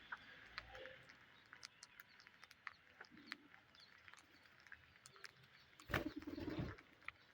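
Faint bird sounds: scattered small clicks and chirps with a few soft low coos, and one louder rough burst lasting under a second about six seconds in.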